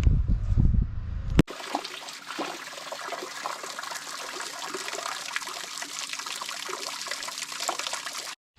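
A loud low rumble, like wind on the microphone, for about a second and a half. Then it cuts sharply to a garden fountain's water trickling and splashing steadily, which stops just before the end.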